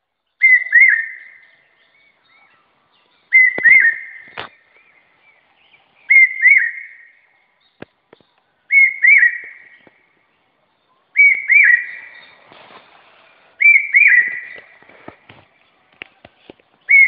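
A bird calling over and over: a loud whistled call of two quick up-and-down notes, repeated about every two and a half seconds. Faint knocks and rustles come between the calls.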